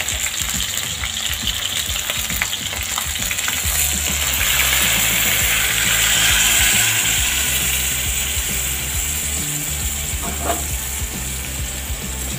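Chicken pieces frying in hot oil in a pan, with a louder, denser sizzle from about four seconds in as blended chile adobo sauce is poured over them through a strainer, easing off after a few seconds.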